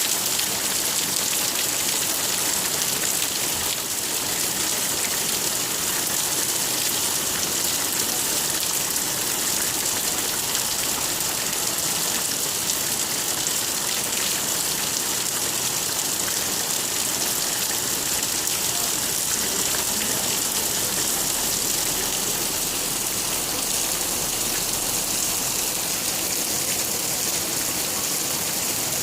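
Steady rain falling: an even, unbroken hiss made of many small drop hits.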